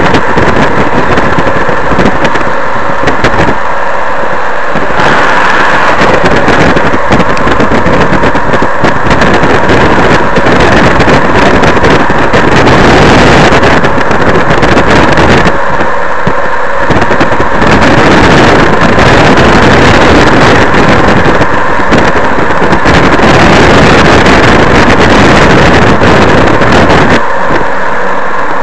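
Freight train rolling past at close range: a loud, steady rumble and rattle of steel wheels on the rails, with a few faint steady tones above it.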